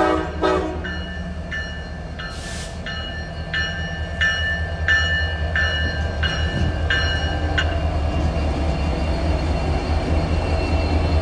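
Norfolk Southern diesel locomotives rumbling by at slow speed, the deep engine rumble swelling in the second half. Over it a bell rings about one and a half times a second, stopping about eight seconds in.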